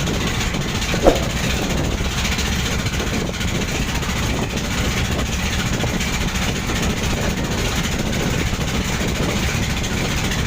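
Boat engine running steadily under way, a continuous low rumble with rushing noise, and a short squeak about a second in.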